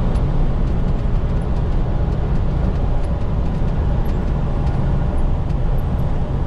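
Steady low rumble of a semi-truck cab at road speed, with faint scattered ticks over it.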